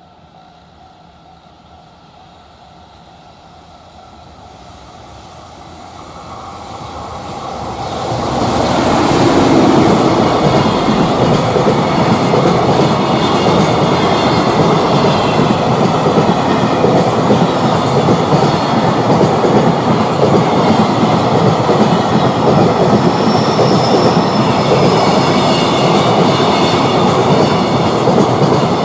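Container freight train approaching and passing close by: its noise swells over the first eight seconds or so, then a loud, steady rumble of wagon wheels on the rails with rapid clickety-clack runs through the rest, with faint high-pitched wheel squeal mixed in.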